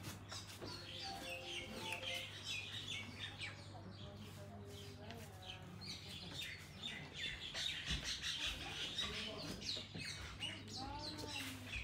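Birds chirping and tweeting in many quick short calls, over a steady low hum.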